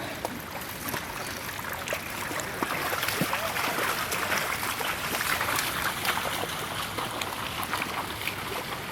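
Water splashing and running: a steady rush with many small splashes, a little louder from about two seconds in.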